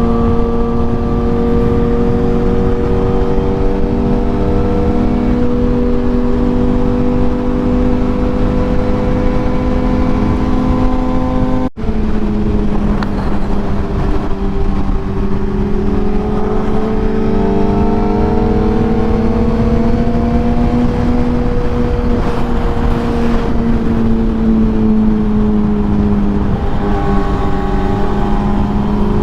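Sportbike engine running at a steady cruise, its note holding near one pitch and drifting slowly up and back down, under a heavy rush of wind and road noise. The sound cuts out for an instant about twelve seconds in.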